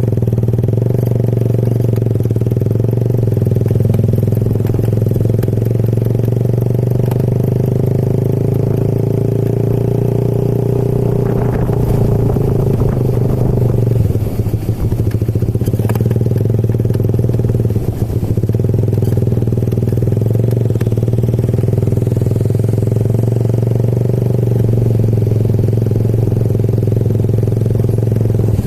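Motorcycle engine running at a steady speed during a ride, with a few short rattles and knocks around the middle.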